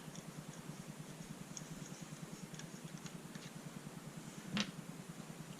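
Faint small clicks of an Allen key and metal and plastic paintball-marker parts being handled as the trigger housing is worked free, with one sharper clack about four and a half seconds in.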